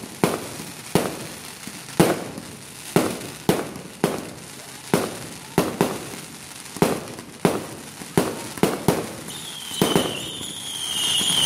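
Fireworks going off in the air: an irregular run of sharp bangs, one or two a second, each with a short echoing tail. Near the end the bangs stop and a high wavering whistle starts.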